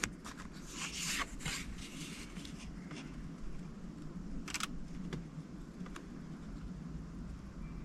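Paper cards and stickers being handled: short rustles and scrapes, a sharper scrape about four and a half seconds in, and a few small clicks, over a low steady hum.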